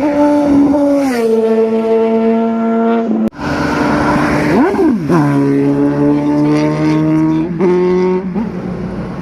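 Superbike engine running at steady revs, its note dropping in steps as the revs come down. The sound breaks off briefly about three seconds in, and there is a quick throttle blip about five seconds in.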